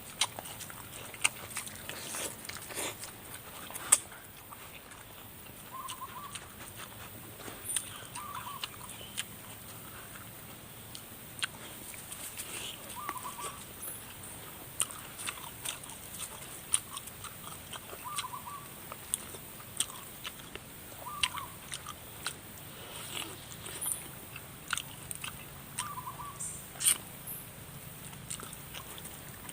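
Close-up eating sounds: biting and chewing spicy chicken feet, with many irregular sharp clicks and smacks. A short chirp repeats every few seconds in the background.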